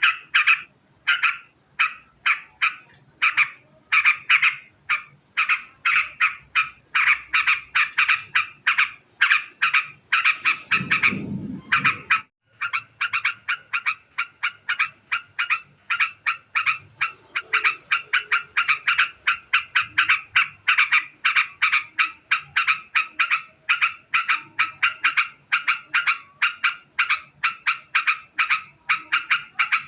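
Yellow-vented bulbul (trucukan) giving its long, very fast chattering call: a continuous string of short, rapid notes, several a second. A low rumble cuts in about eleven seconds in and the chatter breaks off briefly before resuming.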